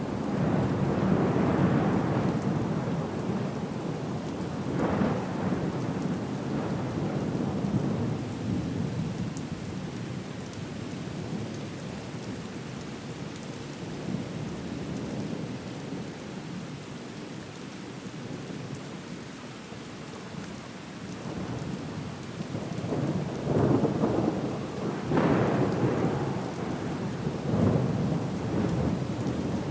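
Storm ambience: steady rain with rolling rumbles of thunder that swell and fade, once near the start, briefly around five seconds in, and again in several surges over the last seven seconds.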